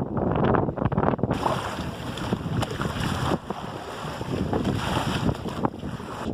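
Wind buffeting the microphone over water washing along the hull of a small sailboat under way. A brighter hiss sets in just over a second in.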